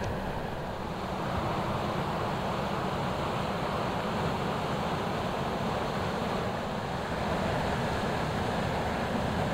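A passing inland ship on the river: a steady low rumble with the rush of water, a little louder from about a second in.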